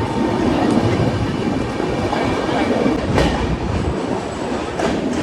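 Tapti Ganga Express passenger train passing at speed: a loud, steady rumble of wheels on rails, with sharp clacks over rail joints, the strongest about three and five seconds in.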